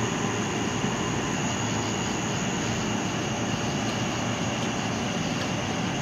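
Steady continuous hum and hiss at an even level, with a faint constant high whine above it and no distinct events.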